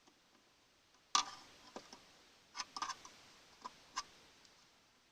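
Sharp metallic clinks and knocks as metal engine parts are handled: one loud knock about a second in, then several lighter clicks.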